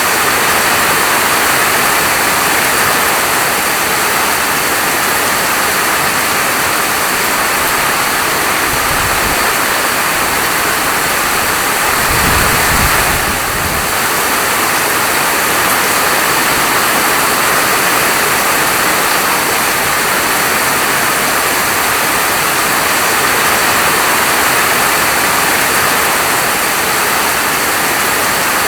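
Heavy rain falling steadily, a dense, even hiss, with a brief low rumble about twelve seconds in.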